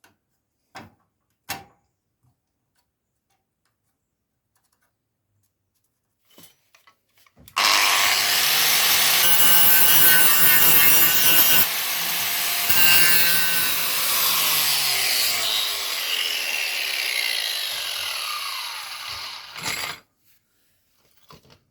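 Angle grinder cleaning up bare car-body steel, starting abruptly about seven seconds in and running loud and rough for about twelve seconds. Its pitch then falls as it winds down, and it stops. Two light knocks come in the first couple of seconds.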